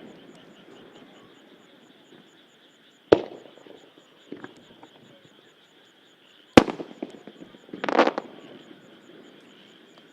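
Aerial firework shells bursting overhead: two sharp booms about three and a half seconds apart, each trailing off in an echoing rumble.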